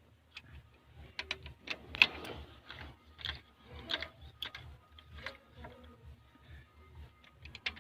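Ratchet wrench clicking in short, irregular runs while the big end cap bolts of a Cummins truck engine are tightened, with a louder metallic clink about two seconds in.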